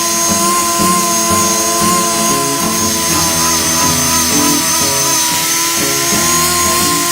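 An electric power tool running steadily with a constant high whine, while acoustic blues guitar music plays over it.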